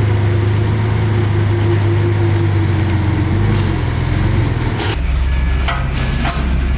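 Diesel engine of heavy earthmoving machinery running steadily. About five seconds in the sound changes abruptly to a deeper engine hum with a few short metallic squeaks and clanks.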